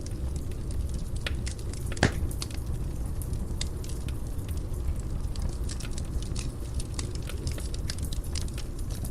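Fire burning in a fireplace: a steady low rumble with frequent small crackles, and one louder pop about two seconds in.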